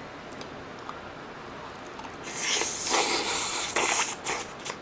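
A mouthful of sauce-dipped crispy fried pork cutlet (donkatsu) being chewed close to the microphone. A noisy, crackly crunch starts about two seconds in and lasts about two and a half seconds, with a few sharp clicks near the end.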